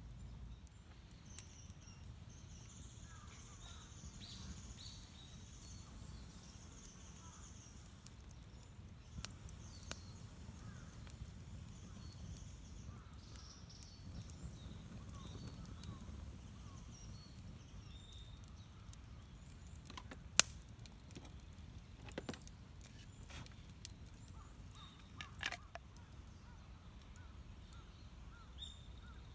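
Quiet outdoor ambience with a low rumble, faint bird calls, and scattered sharp clicks and pops, one much louder crack about twenty seconds in.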